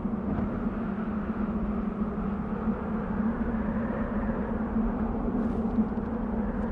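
Desert wind blowing steadily: an even, low rushing with a steady hum under it, and a few faint ticks about five seconds in.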